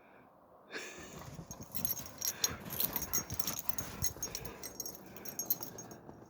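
A German Shepherd dog making close, noisy sounds: a dense run of snuffling with many short clicks, starting about a second in and cut off suddenly at the end.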